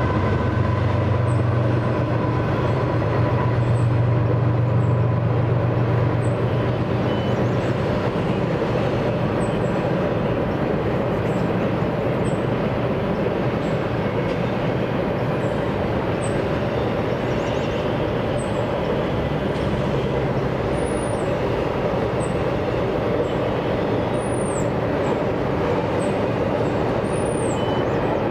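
Double-stack intermodal freight train rolling past, a steady rumble of steel wheels on rail. The low drone of the CSX diesel locomotives that lead it fades over the first several seconds, leaving the rolling noise of the container well cars.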